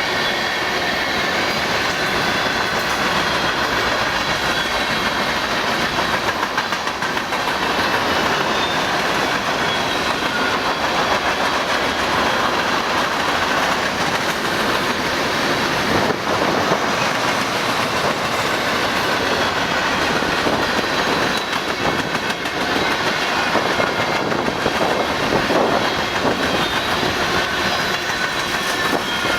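Railroad cars rolling past, their steel wheels making a continuous rumble on the rail with occasional knocks as they cross rail joints.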